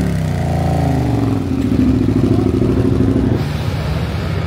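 A car engine revving as it pulls away, its pitch bending up and down at first, then holding steady before dropping away a little after three seconds in.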